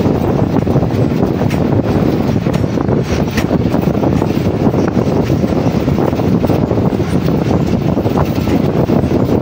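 Passenger express train running at speed, heard from on board: a steady rumble of wheels on the rails, mixed with wind.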